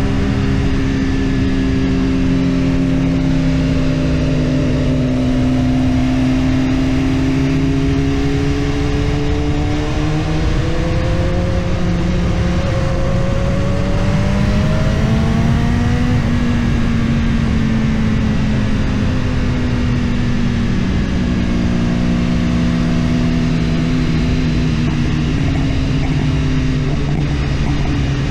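BMW S1000RR superbike's inline-four engine running under way at steady, moderate revs; its note climbs slowly to a peak about halfway through, then eases back down, over a constant rush of noise.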